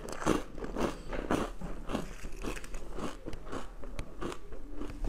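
A person chewing crisp dried fruit close to the microphone, a steady run of crunches at about two a second.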